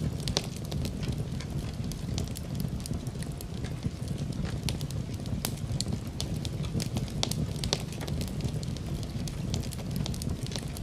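Wood fire burning in a fireplace: a low steady rumble of flame with many irregular sharp crackles and pops.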